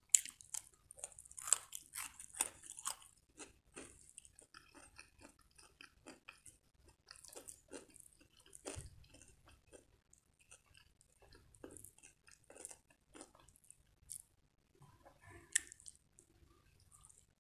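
Close-miked mouth sounds of eating: a run of crisp crunchy bites and chewing of fresh cucumber in the first few seconds. After that comes softer, wetter, intermittent chewing of corned beef and fried egg eaten by hand.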